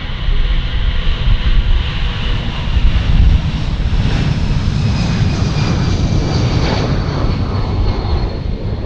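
Jet aircraft passing close by, its engines giving a loud, steady rumble with a high whine that slowly falls in pitch as it goes past. The sound eases off near the end.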